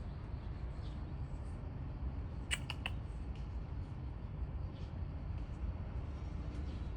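Steady low background rumble, with three quick sharp clicks about two and a half seconds in.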